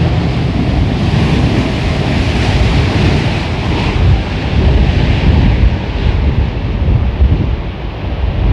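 Storm-force gusts buffeting the microphone in a loud, uneven, rumbling rush, with a steady rushing hiss above it.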